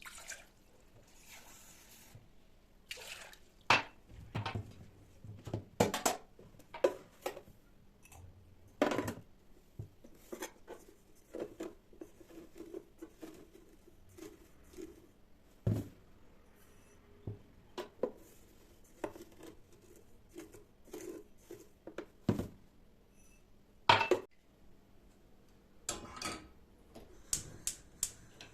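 Dishes, cutlery and kitchenware being handled: irregular clinks, taps and knocks, with a few sharper clatters, the loudest about four, six, nine and twenty-four seconds in.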